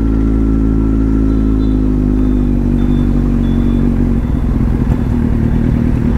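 Kawasaki Z800's inline-four engine running under way at fairly steady revs, its pitch easing slightly down, with wind rumble on the microphone.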